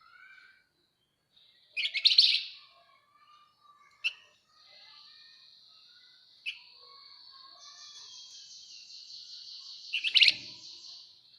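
Javan fulvetta singing its rapid chattering song: a loud burst of fast chatter about two seconds in and another near the end, short sharp chirps between, and a long thin, high buzzing trill through the middle that swells before the final burst.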